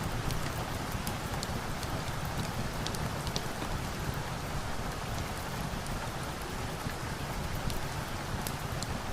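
Steady rain falling, an even hiss with many small, sharp ticks scattered through it.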